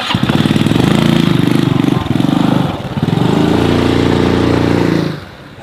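A small engine running close by, with a rapid pulsing beat. It eases off briefly a little under halfway through, picks up again, then drops away shortly before the end.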